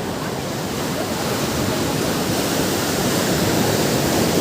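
Ocean waves washing onto a beach, a steady rushing surf that swells louder toward the end.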